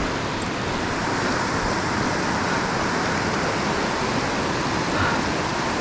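Steady, loud rush of whitewater tumbling over rocks.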